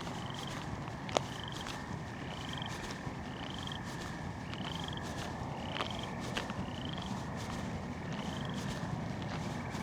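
A frog calling at night: a short rising peep repeated a little more than once a second, over a steady high drone of more distant calling. A single sharp click, likely a footstep, about a second in.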